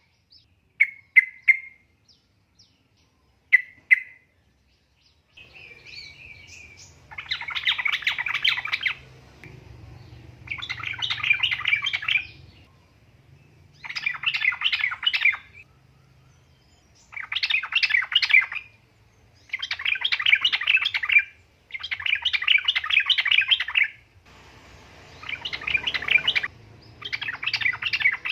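Yellow-vented bulbul calling: a few short single notes at first, then from about seven seconds in, repeated bursts of fast chattering song, each a second or two long, about eight times, with short gaps between. A faint low hum lies under the bursts.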